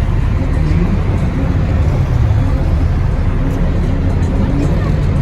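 Car engines running and revving, their pitch rising and falling in short sweeps over a steady low rumble, with music playing alongside.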